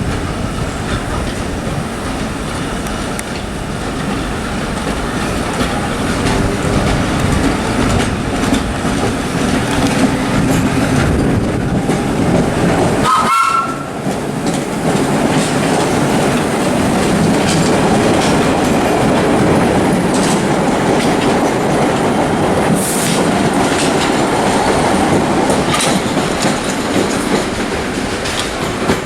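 Vintage subway train running on the rails with a steady clatter of wheels over the track. A short rising squeal comes about halfway through.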